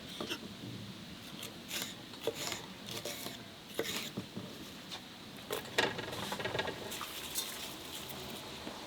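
Scattered light clicks, taps and rustles at irregular times, as of small kitchen things being handled, with a cluster of them about two-thirds of the way through.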